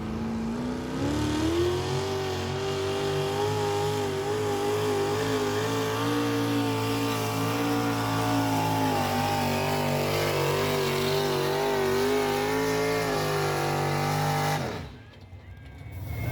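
Pulling truck's engine revving up about a second in and held at high revs under load with a wavering pitch during a pull down the track, then cutting off sharply near the end.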